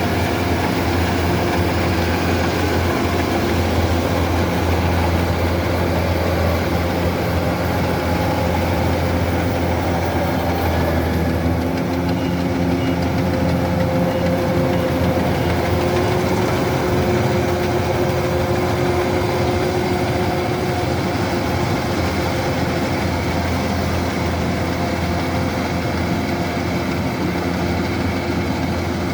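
Kubota DC-105X combine harvester's diesel engine running steadily under load, a constant low hum with no break.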